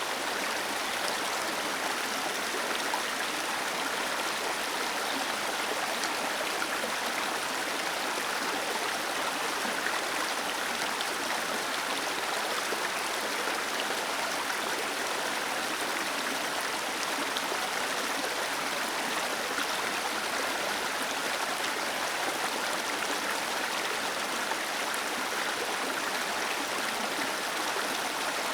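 Small waterfall cascading and splashing over rocks, a steady rushing of falling water.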